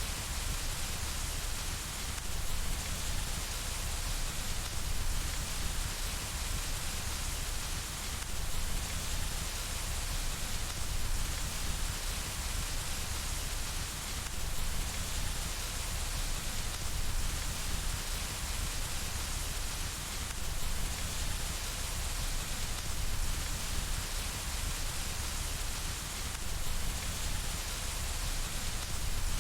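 Steady rain falling on window glass: an even, unbroken hiss with a low rumble underneath.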